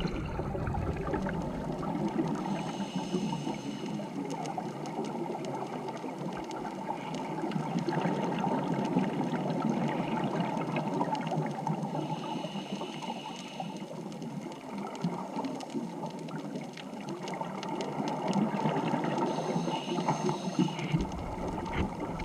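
Water rushing and bubbling steadily, with a brief higher hiss three times: about three seconds in, about halfway, and near the end.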